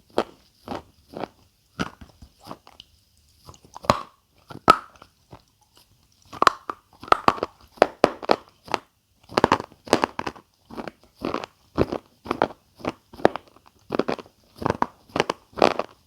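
Close-miked ASMR chewing of crunchy food: a steady run of sharp crunches, about two a second, with two short pauses in the first half.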